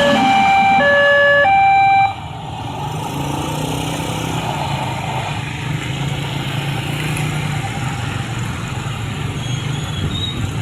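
A two-tone warning signal, two steady notes alternating about every two-thirds of a second, cuts off sharply about two seconds in. A steadier low hum with a haze of noise follows.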